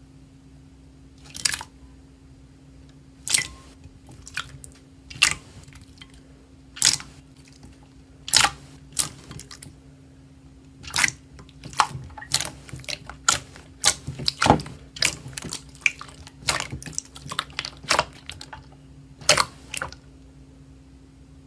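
Slime being pressed and worked, giving short sharp pops and clicks at irregular intervals, more frequent in the second half, over a low steady hum.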